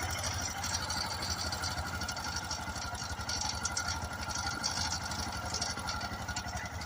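Royal Enfield Himalayan BS4's single-cylinder engine idling with an even, rapid beat and valve-train tapping: the tappet noise that is a common complaint on the Himalayan.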